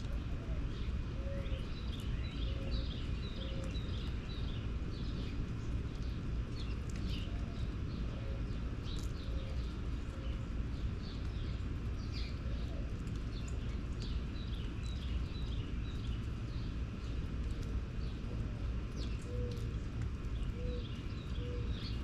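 Small birds chirping and trilling in quick, repeated short calls, with a few lower single notes, over a steady low background rumble.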